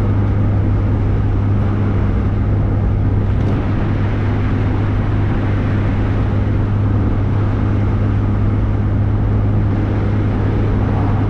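Car cruising at a steady speed, heard from inside the cabin: a constant low engine drone with road and tyre noise, unchanging throughout.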